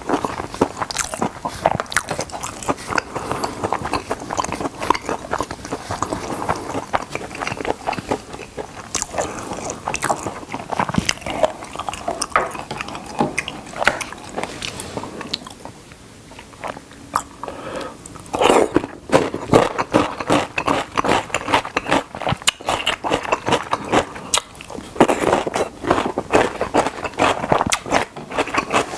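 Close-miked crunching and chewing of fried chicken drumsticks: crisp bites breaking the coating, with wet chewing clicks in between. There is a quieter lull about halfway through, then louder, crunchier bites resume.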